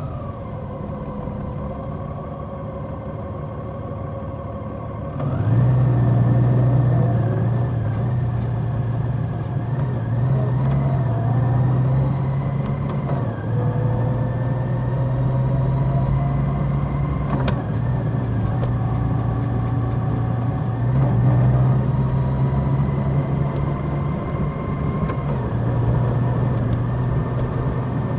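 Large motorcycle's engine running while riding, stepping up in pitch and loudness about five seconds in as it accelerates, then holding fairly steady with small rises and dips in revs.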